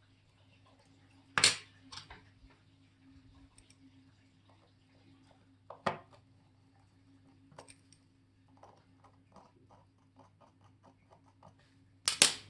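Small metal clicks and clinks of watchmaker's tools and parts on a workbench during work on a Molnija chronograph movement: two sharp clicks, then a run of small, evenly spaced ticks and a louder cluster of clinks near the end, over a faint steady hum.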